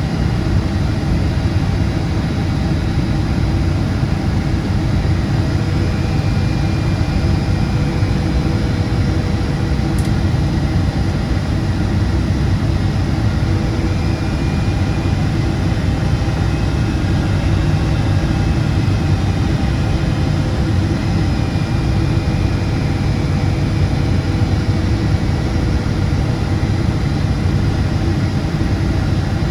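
Steady engine and airflow noise inside the cabin of a Boeing 777-200ER with GE90-92B turbofans: a low rumble with faint steady tones above it.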